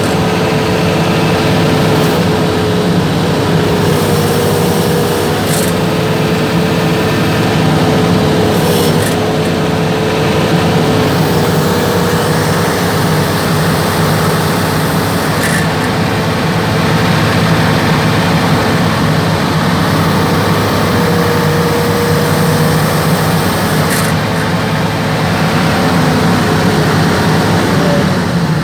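Hitachi Zaxis hydraulic excavator running steadily, with a constant whine from the hydraulic system above the engine and a few faint clicks. The whine is presented as a sign of damage in the swing hydraulics, which the owner puts down to a worn left hydraulic pump head after late changes of ordinary-grade hydraulic oil.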